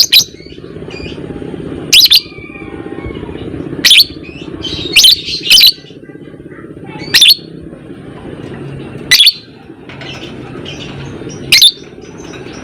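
Lovebird giving short, piercing calls, about eight of them one to two seconds apart, over softer twittering and a steady low hum.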